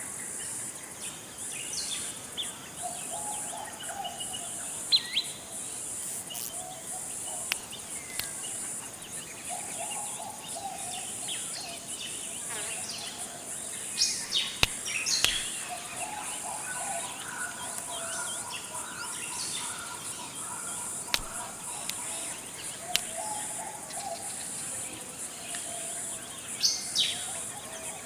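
Forest ambience: a steady, pulsing high-pitched insect chorus, with birds calling over it in short sharp chirps and a lower call repeating every several seconds.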